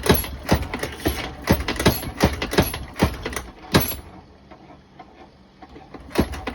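3D-printed bullet feeder and sizing press running: a rhythmic mechanical clacking of about three sharp clicks a second over a low motor hum. It drops to a brief lull about four seconds in and starts again near the end.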